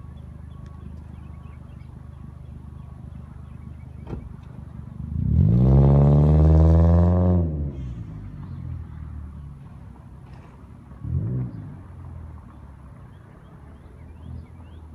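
2014 Toyota Corolla engine through an exhaust with the resonator and muffler deleted: idling, then revved once, rising in pitch and falling back over about two seconds, with a second short blip of the throttle near the end.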